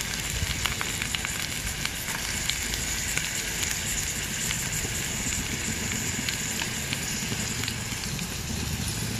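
Chopped onion, carrot and green chilli frying in hot oil in a pan with a tempering of seeds and dried red chillies: a steady sizzle with scattered small crackles.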